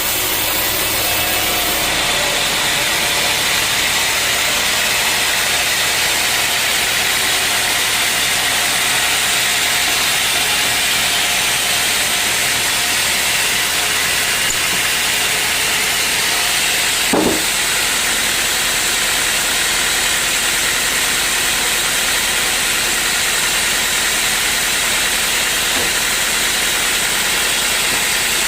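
Sawmill saw running steadily with a continuous hiss, with a single brief knock about two-thirds of the way through.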